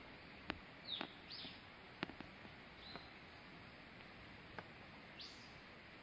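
Faint short bird chirps, a few sweeping up and down, over a steady low hiss, with scattered sharp taps in between.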